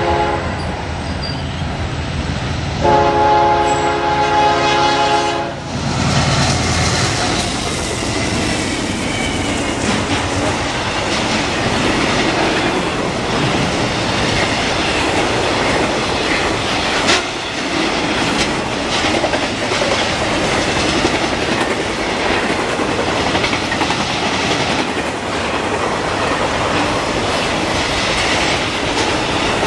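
A diesel locomotive's multi-tone air horn: the tail of one blast right at the start, then a louder blast lasting about two and a half seconds. After that a freight train of intermodal trailers and double-stack cars rolls past close by, steel wheels clattering over the rail joints, with one sharp bang about 17 seconds in.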